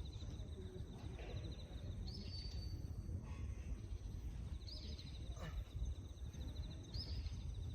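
A bird repeating a short song phrase about every two and a half seconds, each a quick rising note followed by a fast trill, over a low outdoor rumble.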